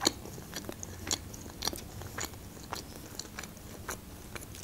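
A person chewing food with the mouth closed, close to the microphone: soft, moist mouth clicks and crunches at an irregular pace, about two a second.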